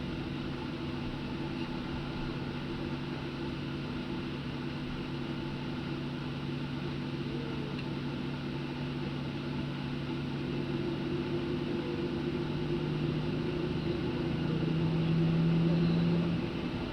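Cabin hum inside a Boeing 737-800 taxiing after landing: a steady drone from its CFM56 engines and air conditioning. Near the end the engine tone rises a little and grows louder, then falls back suddenly, as a brief burst of taxi thrust is throttled back.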